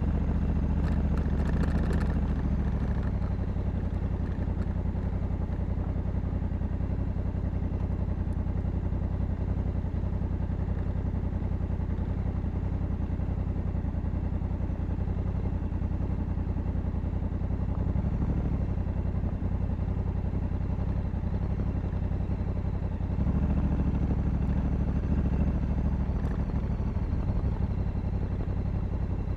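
Honda Africa Twin 1100 DCT's parallel-twin engine running steadily while riding. It gets louder for a few seconds about three quarters of the way through, as if under more throttle.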